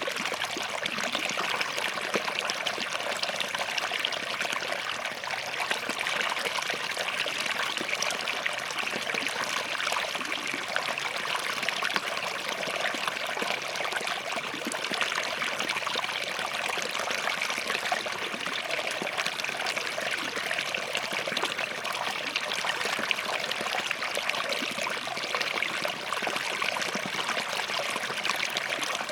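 Forest stream flowing steadily over and between rocks: a continuous splashing trickle with fine bubbling detail.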